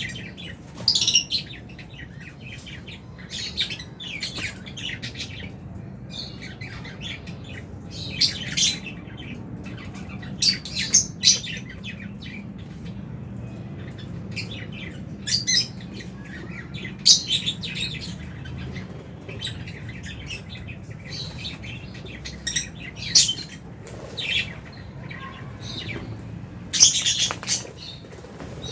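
A colony of lovebirds chirping, with short, shrill calls coming irregularly and overlapping, over a steady low hum.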